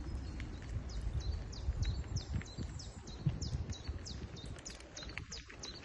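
A small songbird singing a long series of short, high falling notes, about three a second, over a steady low rumble.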